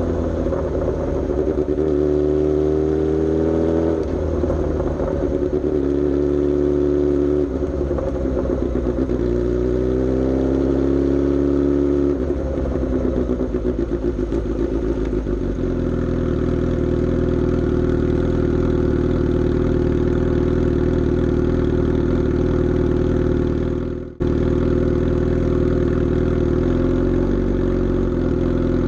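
Suzuki GSX-S750's inline-four engine through a Coffman's aftermarket exhaust. It pulls up in pitch twice with a gear change between, eases off, then runs at a steady engine speed, with a brief dip in sound about 24 seconds in.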